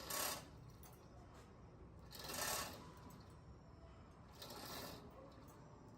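Three rough scraping strokes, about two seconds apart, each lasting about half a second.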